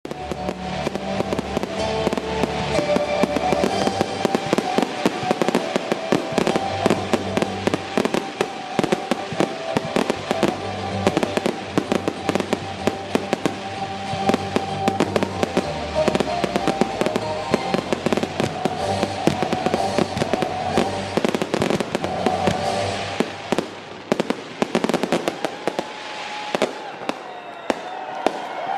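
Fireworks going off in a rapid, dense barrage of bangs and crackles, thinning out somewhat near the end, with music playing along.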